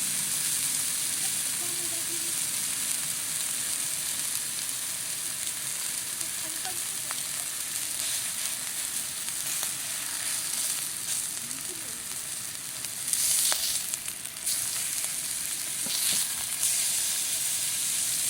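Food sizzling in an iron frying pan over a campfire, a steady high hiss. It gets louder and spatters more a little past the middle and again near the end.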